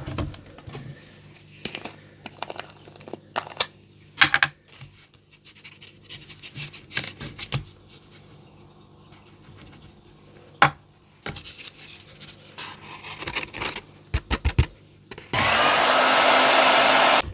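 Light taps and clicks of craft tools being handled, then an embossing heat gun switches on near the end and blows steadily for about two seconds, its motor whine rising as it spins up.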